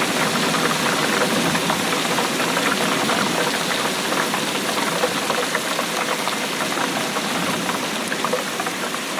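Steady rainfall, a dense, even patter of many drops.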